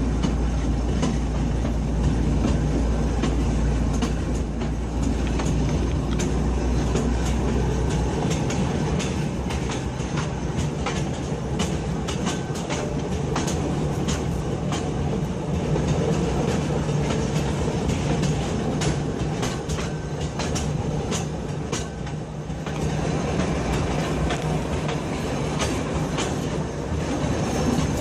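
Train running on the rails with a steady rumble and clattering wheel clicks, the clicks thickest through the middle; a deep low drone drops out about eight seconds in.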